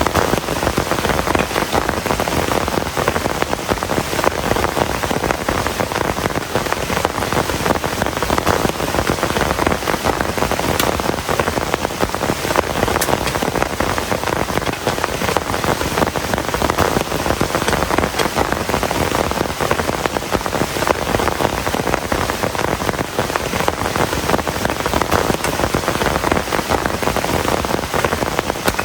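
Heavy rain falling steadily, a dense, even patter of drop impacts without a break.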